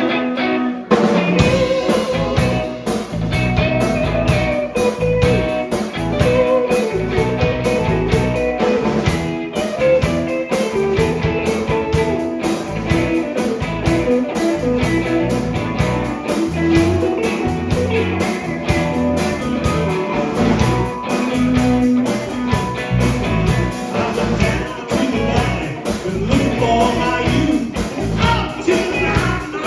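Blues-rock band playing: electric guitar over bass and drums, the full band with a steady drum beat coming in about a second in.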